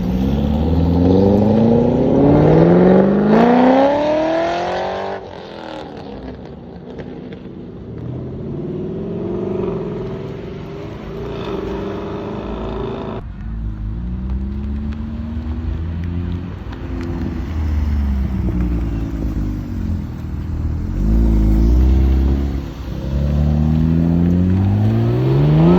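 Car engines accelerating hard, the pitch climbing steeply over the first few seconds, then running at lower, varying revs, before another hard acceleration climbs near the end.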